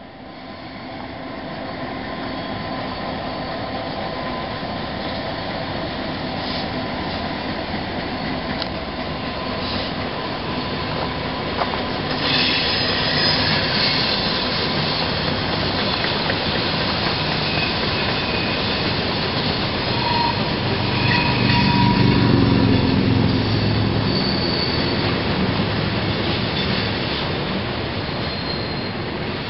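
Freight train passing, pulled by Union Pacific diesel locomotives, with a steady rumble of engines and wheels that builds, is loudest about three-quarters of the way through, then eases slightly. High steady wheel squeal rings over it from about halfway through, typical of flanges grinding on a curve.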